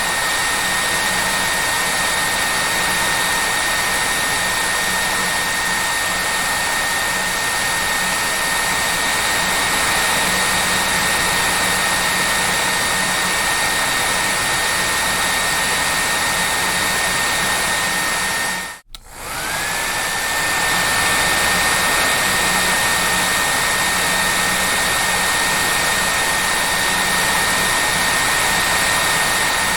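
Hair dryer running steadily: a rushing airflow with a high motor whine. About two-thirds of the way through it drops out for a moment, and the whine climbs back up to pitch as it returns.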